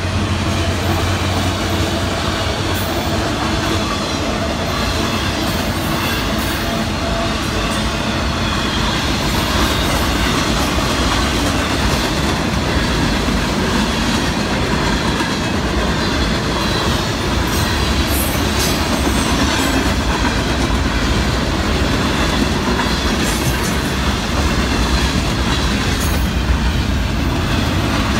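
Florida East Coast freight train cars rolling past at close range: a steady rumble and clatter of steel wheels on the rails, with occasional brief high wheel squeals.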